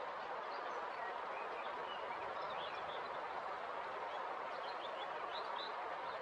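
River water flowing swiftly in a steady rush, with faint short bird chirps over it through the middle.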